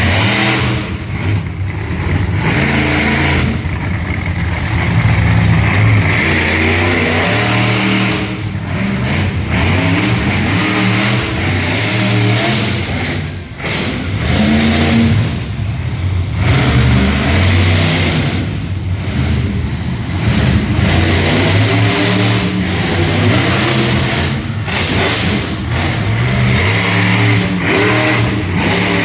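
Monster truck engine revving hard again and again, the pitch climbing and falling with short lifts off the throttle.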